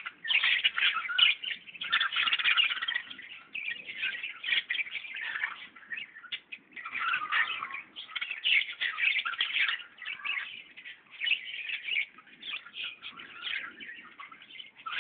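Many small birds chirping at once, with calls overlapping continuously.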